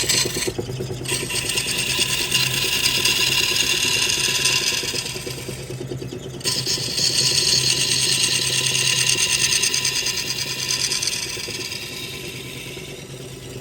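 Wood lathe running with a steady motor hum while a turning tool cuts into the spinning wood in long passes, lifting off briefly twice and easing off near the end.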